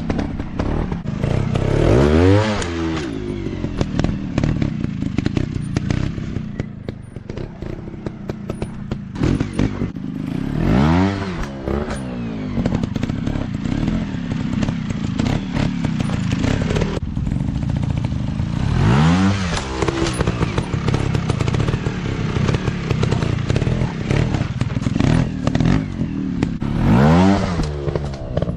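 Dirt bike engines running continuously, with the engine pitch climbing sharply and dropping back four times, roughly every eight seconds, over a steady rattle.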